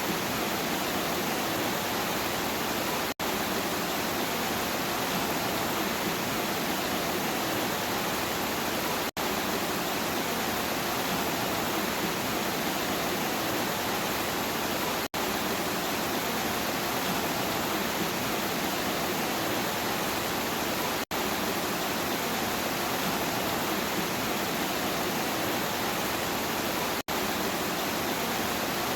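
Steady rain, an even hiss, broken by a split-second dropout to silence about every six seconds.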